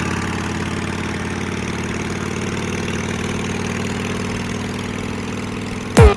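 Motorcycle engine idling steadily. Right at the end a loud electronic kick drum with a falling pitch comes in as the music starts.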